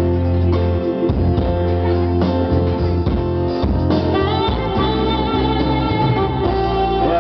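Band music in an instrumental passage with no voice: a guitar over a steady bass line and beat.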